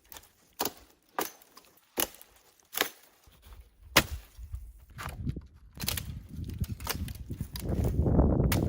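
A run of about five sharp knocks, one every second or less, during outdoor shelter work. From about five seconds in, a low rumbling noise builds and grows louder.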